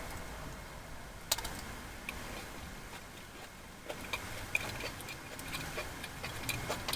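Quiet eating sounds of someone chewing an apple cinnamon muffin, with a few small mouth clicks, the sharpest about a second in.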